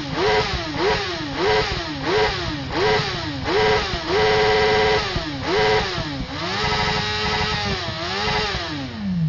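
Sport motorcycle engine revved hard for a decibel-meter reading. There are about seven quick throttle blips, each rising and falling, then the revs are held high for about a second. Two more blips follow, then a longer hold of about two seconds, and the revs fall away near the end.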